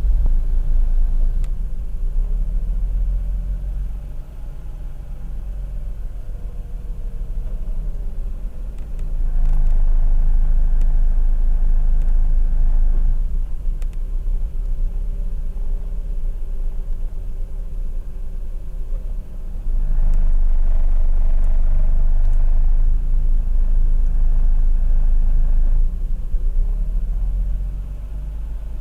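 Mazda RX-8's two-rotor rotary engine idling roughly. A heavy low rumble swells louder and falls back every several seconds.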